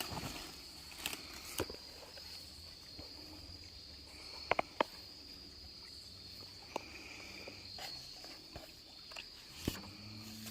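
Insects trilling in one steady high drone, with scattered light clicks and snaps throughout and a sharp double click about halfway. A low hum comes in near the end.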